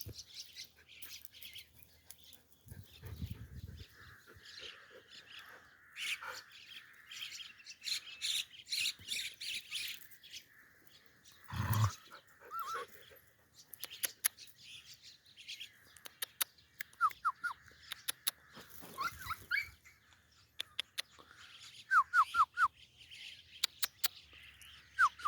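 Birds chirping in short quick runs, with scattered sharp clicks and a couple of low thumps.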